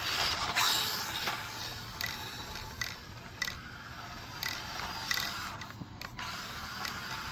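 Small brushed electric motor and gear drive of a 1/24 RC short course truck whirring as it is driven hard, swelling and easing several times on throttle, with the slick tires getting little grip.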